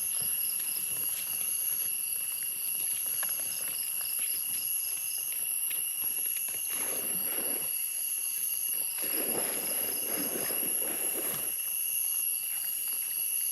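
Forest insects trilling steadily in high tones, with a faster pulsing chirp, and scattered light clicks and taps. Partway through come two short spells of rustling.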